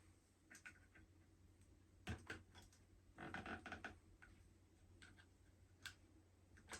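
Near silence, with faint scattered clicks and a short scraping rustle about three seconds in.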